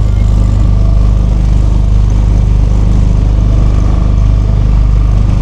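A hired leisure motorboat's engine running steadily at cruising speed, a constant low drone heard from on board.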